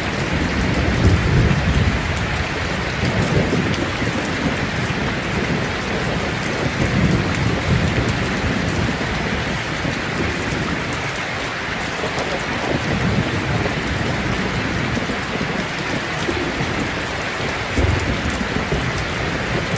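Steady rain falling, with low rumbles of thunder rolling in and out.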